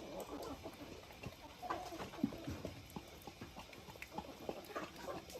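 A dog eating a raw egg: faint, scattered small clicks and ticks of its mouth working on the egg.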